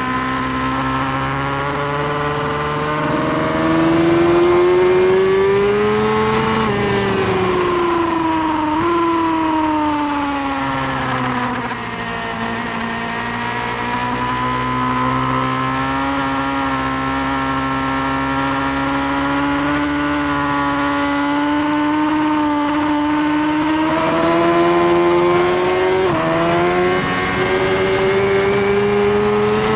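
2018 Suzuki GSX-R1000R's inline-four engine at racing speed, heard from on the bike. The revs climb for the first few seconds, then fall over several seconds with small steps as it brakes and downshifts, then rise again for a long stretch, with two quick dips near the end as it shifts up.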